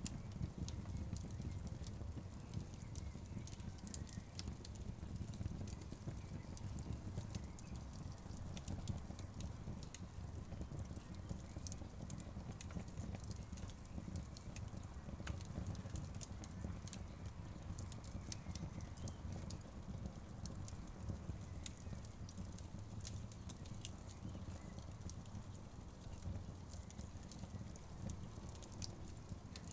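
Wood fire burning in a fireplace, its logs crackling: frequent irregular sharp pops and snaps over a steady low rumble of flames.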